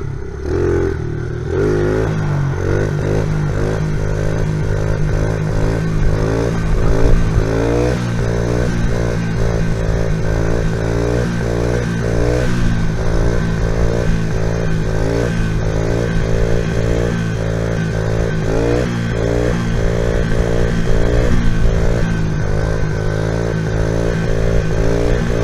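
Honda XR70 pit bike's small single-cylinder four-stroke engine running under way, its pitch wavering up and down about twice a second.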